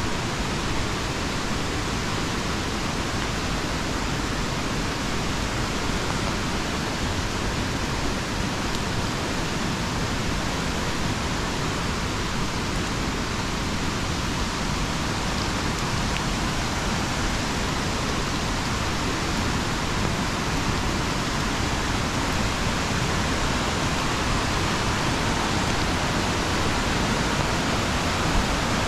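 Steady rushing water with an even, unbroken hiss.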